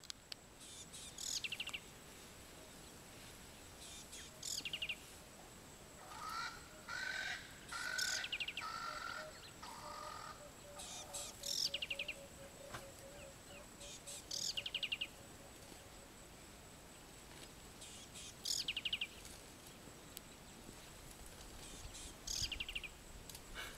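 Wild birds singing: a high, falling, trilled phrase repeated every three to four seconds, with other calls between them and a low run of quick, even notes in the middle.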